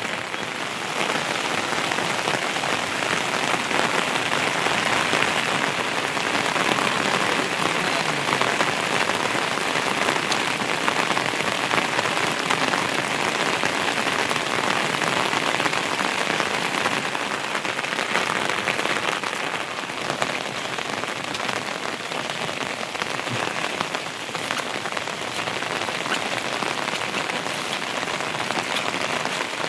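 Heavy monsoon rain falling steadily, a dense, even patter of drops.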